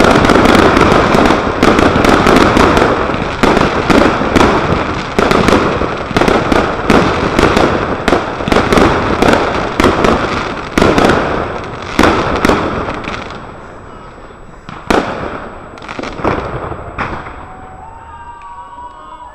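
Finale barrage of consumer firework batteries and cakes: dense, rapid overlapping bangs and crackling. After about 13 seconds it thins out to a few single bangs and dies away.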